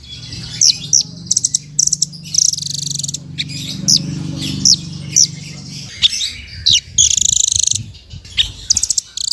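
Songbird song played as a masteran (tutor recording) for cage birds to copy: fast buzzy trills alternating with sharp, quick high chirps. A low hum sits underneath for about the first six seconds.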